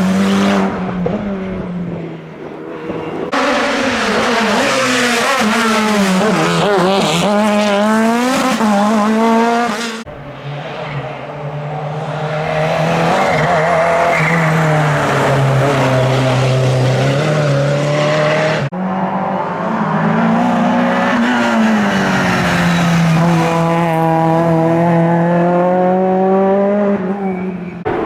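Hillclimb race cars at full throttle, engines revving high, rising and dropping in pitch through gear changes. Several separate passes are cut together, with three abrupt changes from one car to the next.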